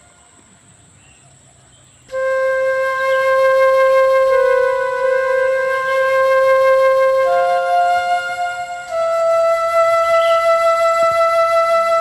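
Music: a flute playing long, slowly changing held notes, coming in about two seconds in after a brief quiet.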